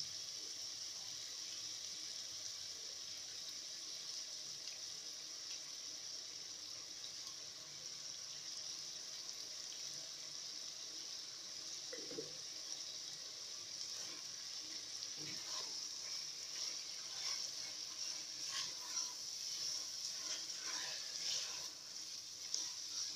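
Chicken and onions sizzling steadily in an aluminium pot on the stove, with a few short scraping knocks of stirring in the last several seconds.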